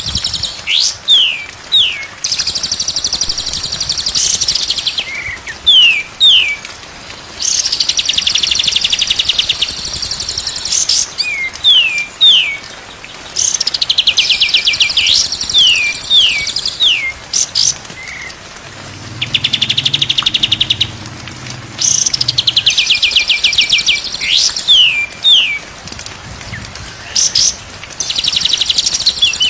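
White-rumped shama song as played in a masteran training recording: repeated phrases of fast rattling trills and short downward-sliding whistles, recurring every few seconds.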